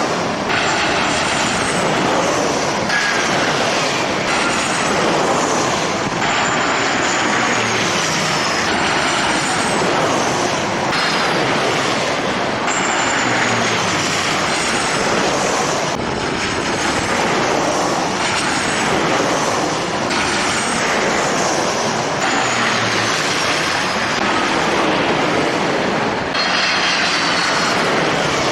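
Jet airliner engines: a loud, steady rush with high whines that glide downward in pitch again and again.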